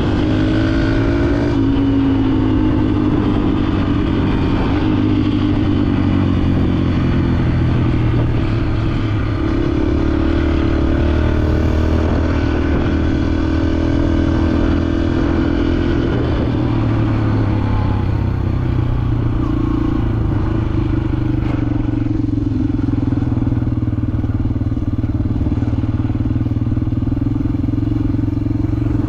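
Dirt bike engine running on the trail, its pitch rising and falling with the throttle.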